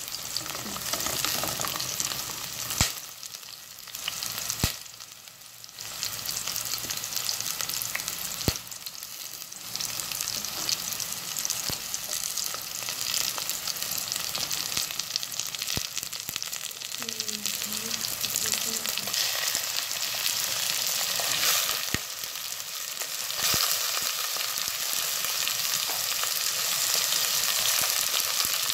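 Chopped onion and garlic sizzling in hot oil in a stainless steel pot as they are stirred with a spoon, with a few sharp clicks early on against the steady sizzle.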